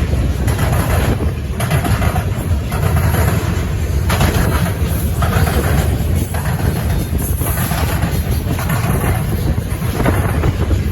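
Freight cars of a CN potash train rolling past, a loud steady rumble of steel wheels on rail that swells and eases roughly every second.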